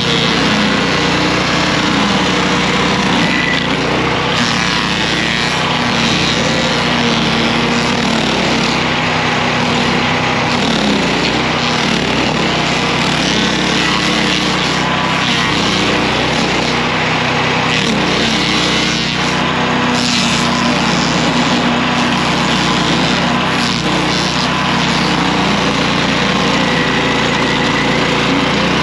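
Stump grinder's small gasoline engine running steadily at working speed, its pitch wavering slightly, over a dense grinding noise.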